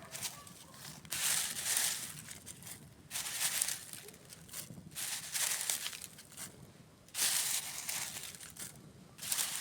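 Campfire crackling, with surges of louder crackling and rustling about a second long, coming roughly every two seconds.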